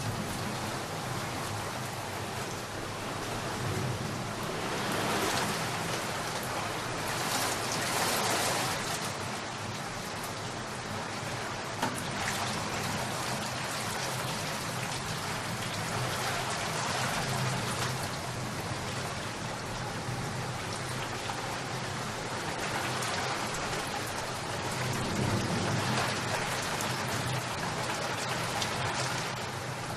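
Steady rainfall, drops pattering on surfaces, swelling louder for a few seconds twice, once early and once near the end.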